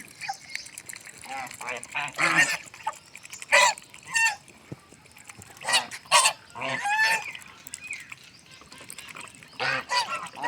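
Domestic geese honking: short, repeated calls from several birds, irregularly spaced, the loudest about three and a half and six seconds in.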